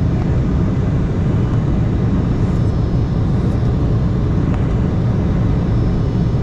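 Steady engine and air noise inside the cabin of an Embraer E175 jet in flight, a constant low-heavy rush from its General Electric CF34 turbofans and the airflow.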